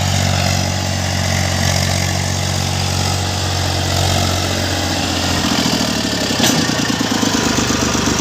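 Diesel tractor engine running steadily, working a field under plough; its note shifts to a higher, rougher pitch about five and a half seconds in.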